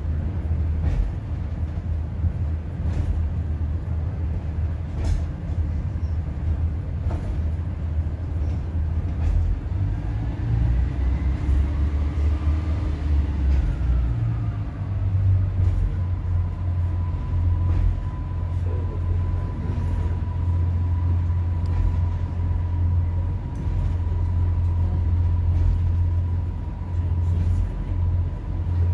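Interior running noise of a British Rail Class 142 Pacer railbus under way: a steady low diesel drone and wheel rumble, with regular clicks about every two seconds as the four-wheeled car passes over rail joints. A steady thin whine sets in about halfway through.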